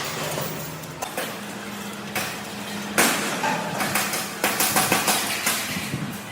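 Metal being struck: sharp hammer-like knocks, a few spaced ones and then a quick run of strikes about two-thirds of the way in, over a steady machine hum.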